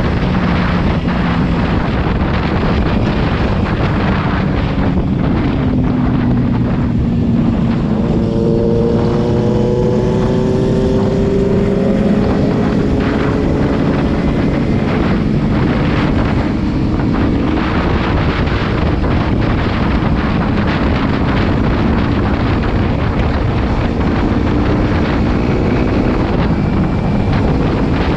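Kawasaki Z300's parallel-twin engine running while riding, with wind rushing over the microphone. The engine pitch climbs as the bike speeds up about eight seconds in.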